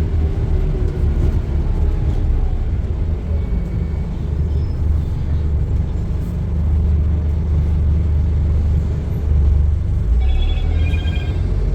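Scania N230UD double-decker bus's five-cylinder diesel engine running with a steady low rumble. A short electronic beeping sounds near the end.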